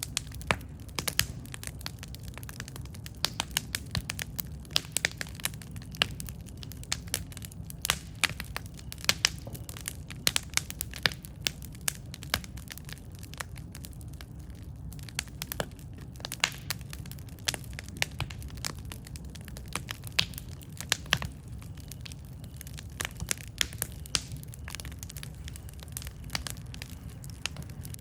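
Wood campfire crackling, with many irregular sharp pops and snaps over a steady low rumble of burning.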